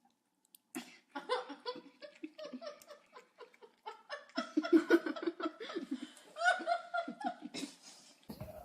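A person laughing hard in a long run of pulsing bursts, starting about a second in and loudest around the middle.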